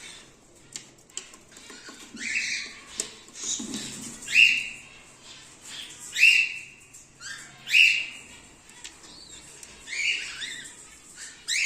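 Cockatiels calling: short squawking calls repeated about every two seconds, six in all.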